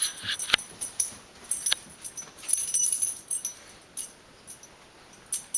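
Metal pet collar tags jangling and clinking in irregular bursts, with a few sharp clicks, as the pet thrashes about.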